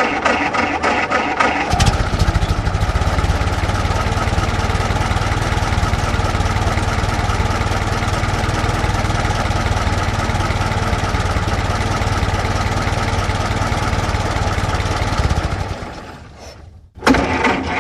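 Old car engine being cranked, catching about two seconds in and then running steadily at idle. Near the end it dies away to a moment of quiet, and another engine sound starts abruptly just before the end.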